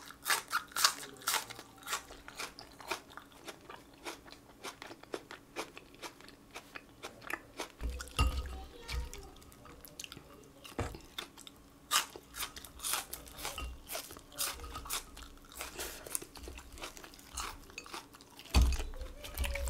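Crunching bites and chewing of raw green onion and fried chicken, many sharp crunches in quick succession. Dull low bumps come about eight seconds in and again near the end.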